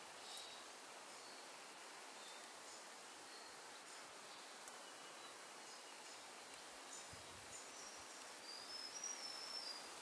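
Faint outdoor background hiss with a few distant, high-pitched bird chirps, more of them in the last second or two.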